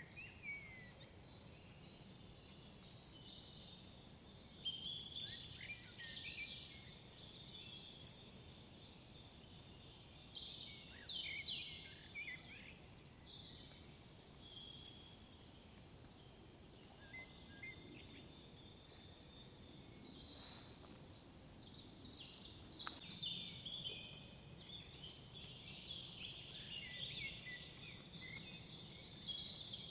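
Several songbirds singing in woodland, with overlapping chirps and whistled phrases. One bird repeats a high, trilled phrase every few seconds, over a faint steady background hiss.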